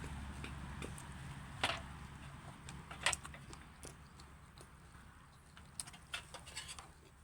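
Scattered sharp clicks and taps of eating utensils on a bowl of noodle soup, the loudest about a second and a half in and three seconds in, then a quick cluster near the end. A low hum fades away during the first few seconds.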